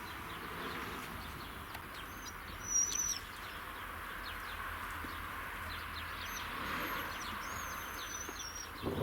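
Songbirds calling: several high whistled notes that bend up and down, the loudest about three seconds in, among short chirps over a steady outdoor hiss.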